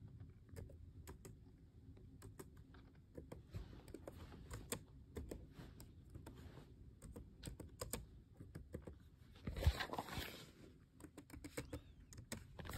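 Typing on a computer keyboard: irregular quiet key clicks. A louder brief rustle comes about ten seconds in.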